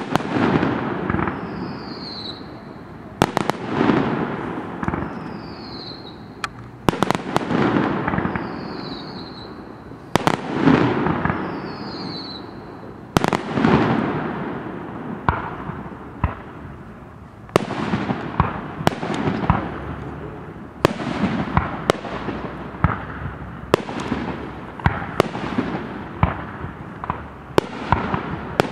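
Aerial firework shells bursting, each sharp bang trailing off into a rolling echo. The bangs come about every three seconds at first, then quicken into several at a time in the second half.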